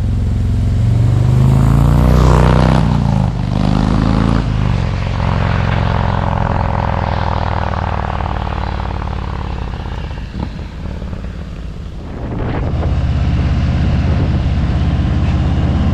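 Harley-Davidson Road King Special's V-twin engine running under way, its pitch shifting a couple of seconds in as the revs change. Near the two-thirds mark it eases off and goes quieter, then pulls back up.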